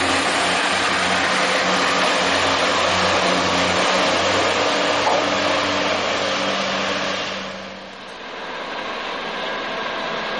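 A Pacer diesel railbus passes close by, its underfloor diesel engine running under steady noise from the wheels and body. About seven seconds in the sound drops away. An EWS Class 66 diesel locomotive with loaded coal hopper wagons then approaches, growing steadily louder.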